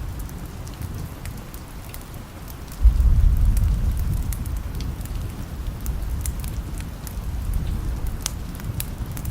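Steady rain, with a deep roll of thunder that breaks in suddenly about three seconds in and slowly dies away. Sharp crackles from a wood fire are scattered throughout.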